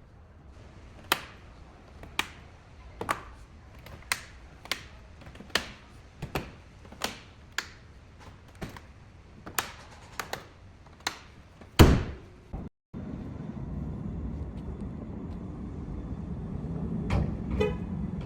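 A run of sharp separate clicks or taps, one or two a second, ends in a heavy thunk like a car door shutting. After a brief dropout comes a steady low rumble, like a vehicle running.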